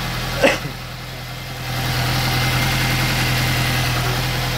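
Fuel-injected Tofaş Doğan engine idling steadily, running again after two and a half months of standing unused.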